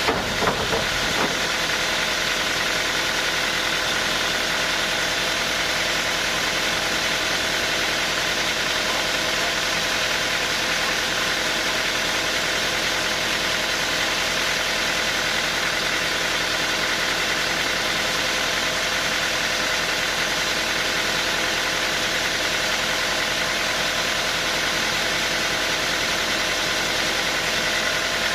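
Sawmill machinery running steadily, a constant mechanical hum with several steady tones. A few knocks come in the first second.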